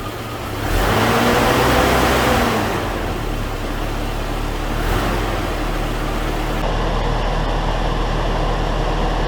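Toyota Hilux's 3Y four-cylinder petrol engine idling steadily on a freshly rebuilt carburettor, running a little rich from a cold start after sitting for nearly two weeks. It grows louder for a couple of seconds about a second in, then settles.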